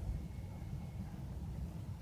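Faint, steady low rumble of a recorded train sound played over distant loudspeakers, turned down so low that the phone barely picks it up. A faint thin whistle-like tone sits over it in the first second.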